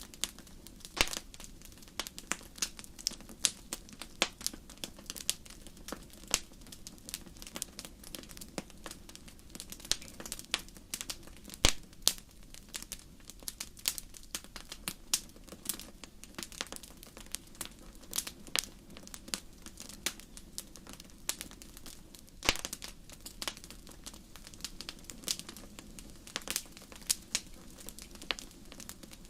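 Wood fire crackling in a fireplace: irregular sharp snaps and pops, several a second, a few louder ones standing out, over a soft steady hiss of burning.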